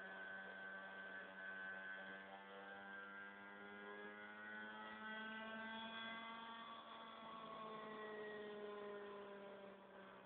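Faint whine of a radio-controlled helicopter's motor and rotor. Its pitch rises about halfway through and slides down again over the last few seconds, over a steady low hum.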